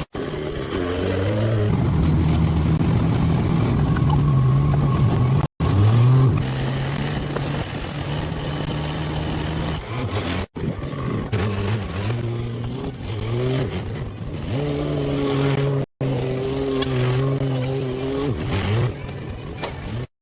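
Car engine running and revving, its pitch climbing several times. The sound is in short clips, each cut off abruptly by a brief dropout.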